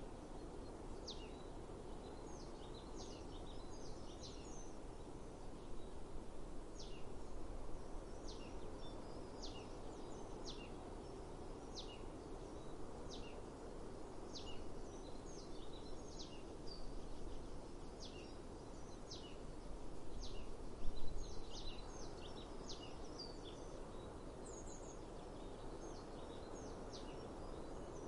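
A songbird repeating short, high, downward-sweeping call notes about once a second over a steady outdoor background hiss, with a brief louder noise near the two-thirds mark.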